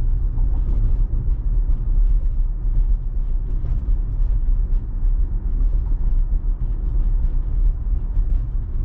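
Steady low rumble of tyre and road noise inside the cabin of a moving Tesla.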